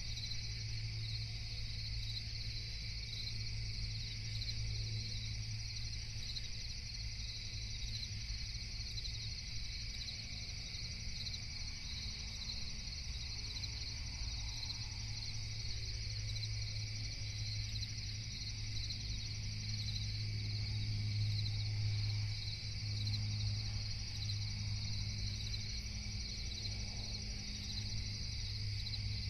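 Night-time cricket chorus trilling steadily and without a break, over a constant low hum.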